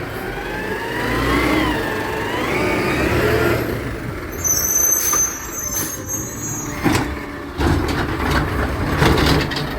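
Garbage truck at work: its engine rumbles steadily under a whine that rises and falls for the first few seconds. Then comes a high squeal lasting about a second and a half, and a few sharp clanks.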